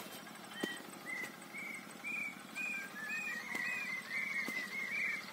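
Birds calling: short arched whistled notes repeated about twice a second, with several calls overlapping at slightly different pitches in the second half, over a few faint clicks.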